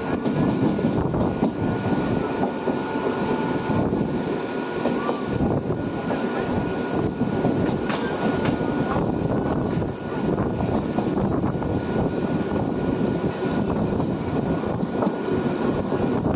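Train passing close by: a steady loud rumble of wheels on rails, with a thin, steady high tone riding over it.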